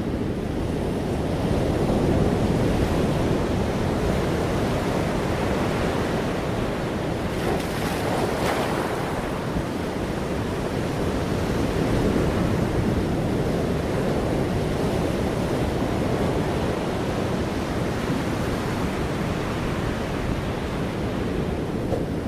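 Steady rushing noise of ocean surf with some wind, swelling gently a couple of times.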